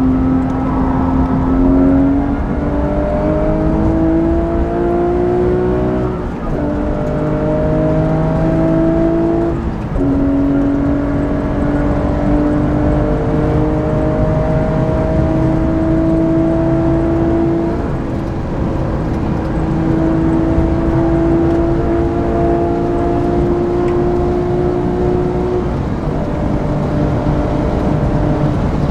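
Porsche 997.2 GT3 RS's flat-six engine with a Manthey racing exhaust, heard from inside the cabin under hard acceleration, with road and wind noise beneath it. The engine note climbs and drops twice in quick manual upshifts, about six and ten seconds in. It then climbs slowly and steadily in a high gear and steps down to a lower note near the end.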